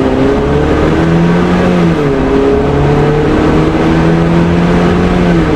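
Jeep Wrangler JL's turbocharged 2.0-litre inline-four breathing through an MBRP cat-back exhaust under hard acceleration. The engine note climbs, drops at an upshift about two seconds in, then climbs again, with another shift near the end.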